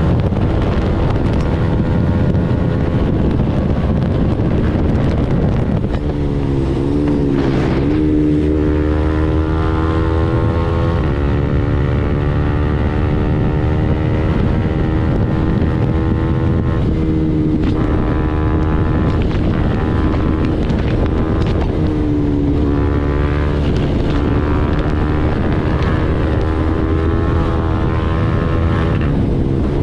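KTM Duke 390's single-cylinder engine, breathing through an Arrow full-system exhaust, running steadily at highway speed under wind buffeting on the microphone. The engine note drops and climbs back up about seven seconds in, with a few short dips later.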